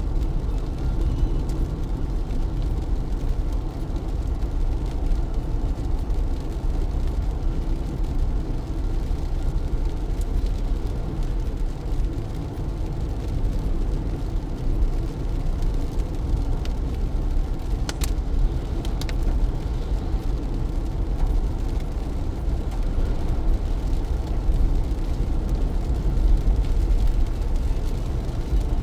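A car driving in heavy rain: a steady low rumble of road and engine with the hiss of rain over it. Two short sharp clicks come about two-thirds of the way through.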